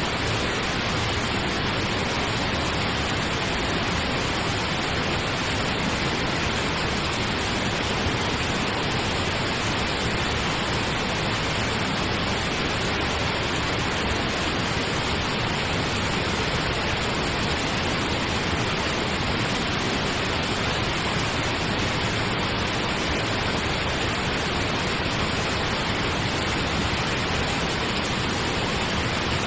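Steady pink noise: an even, unbroken hiss with no change in level.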